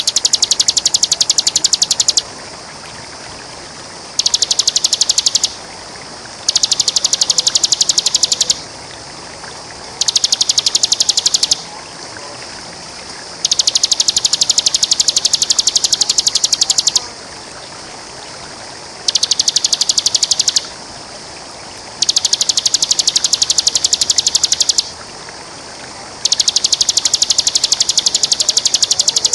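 Bar-winged prinia (ciblek) singing its rapid, high buzzing trill ('ngebren') in eight bouts of one to three seconds with short pauses between. A steady rush of running water sounds underneath.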